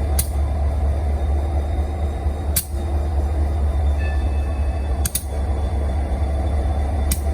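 Union Pacific SD40-2C locomotive's EMD 16-645 V16 two-stroke diesel idling with a steady low rumble. Sharp pops break through every two to three seconds, one of them a quick double.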